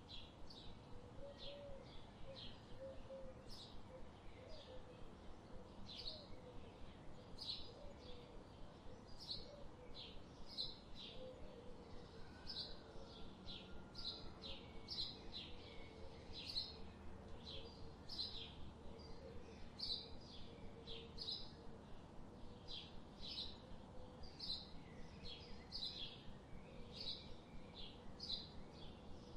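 Birds chirping: short, high chirps repeated steadily about twice a second. A fainter, lower wavering call runs beneath them through roughly the first two-thirds.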